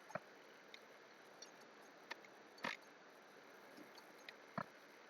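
Scattered short clicks and taps from working at a computer, about eight in five seconds with one slightly longer click midway, over a faint steady hiss.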